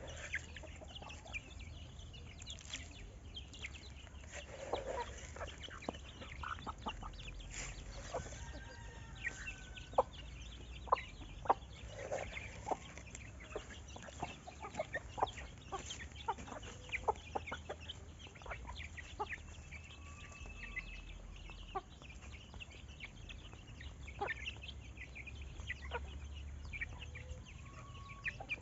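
Chickens clucking, with many short, sharp calls scattered throughout and a few brief higher chirps over a low steady rumble.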